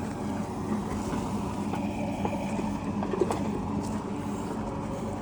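Heavy diesel machinery engine running steadily, with a short knock a little past three seconds in.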